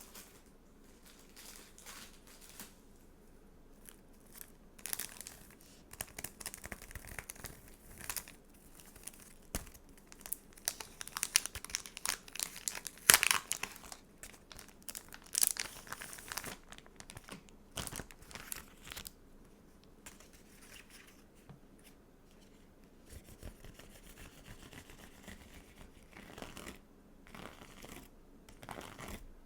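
Close-up rustling, crinkling and peeling of stickers, sticker sheets and their packaging being handled, in irregular bursts that are busiest in the middle, with the loudest sharp crackle about halfway through.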